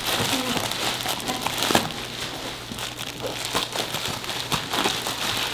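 Packing material rustling and crinkling with many small irregular crackles as hands dig through a shipping box to free a packed marble pot.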